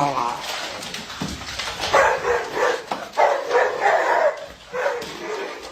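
A dog barking in a run of short, pitched calls, starting about two seconds in.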